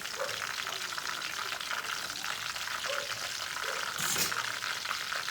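Oil sizzling and crackling steadily in a frying pan as a batter cooks in it, with one brief, louder noise about four seconds in.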